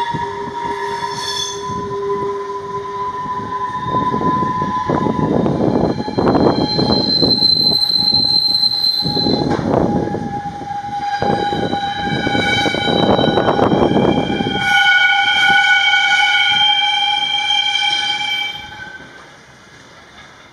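Freight train of Transfesa wagons rolling past, a heavy rumble and clatter of wheels on rail under several long, high-pitched squealing tones that shift in pitch from wheel to wheel. It fades away about three-quarters of a second before the end as the last wagon passes.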